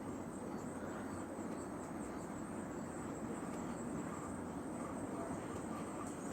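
Steady outdoor background: a low rumble with a thin, continuous high-pitched drone like insects.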